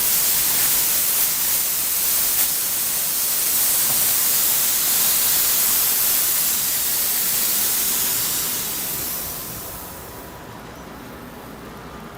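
Pressurised gas hissing steadily as it is blown through an air-conditioner coil to flush out dirt, oil and cleaning solvent. The hiss falls off to a weaker level about nine to ten seconds in.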